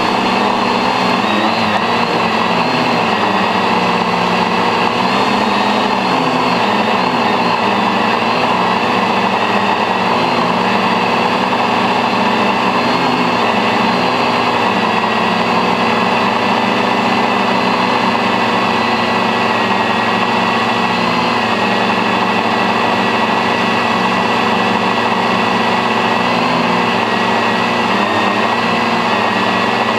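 Stainless-steel octocopter's eight rotors running steadily in flight, heard on board as a loud drone made of several steady whining pitches that waver slightly.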